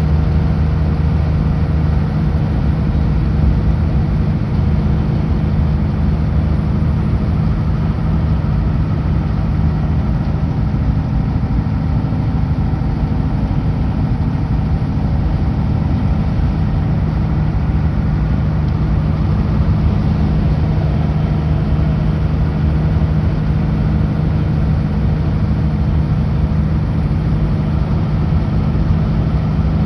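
Kenworth W900L semi truck's diesel engine running steadily at a constant pitch while cruising, with road noise.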